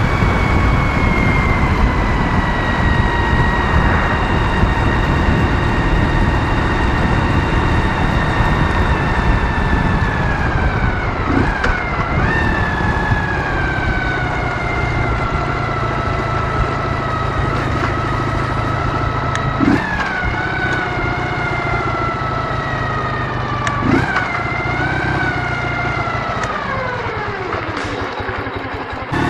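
Ural motorcycle's 650 cc flat-twin engine running under way, its note sinking slowly as the bike eases off, over a steady rumble of road and wind. There are short blips in pitch about twelve, twenty and twenty-four seconds in, and the note drops steeply near the end as the bike slows.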